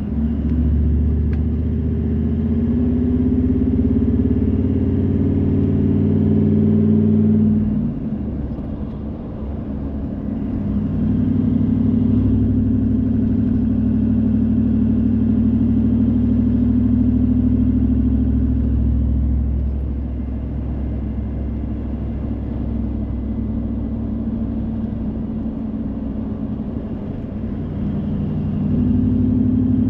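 Car engine and road noise while driving. The engine pulls up through the revs, eases off about eight seconds in, cruises steadily, drops back about twenty seconds in and picks up again near the end.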